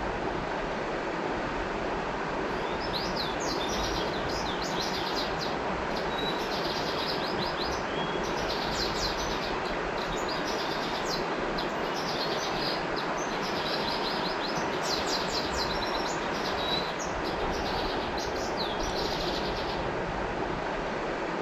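River water flowing steadily, with birds chirping over it in quick runs of high notes from about two seconds in until near the end.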